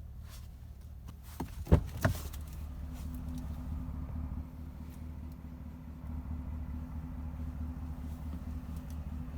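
Pickup truck engine idling steadily, with two sharp knocks close together about two seconds in.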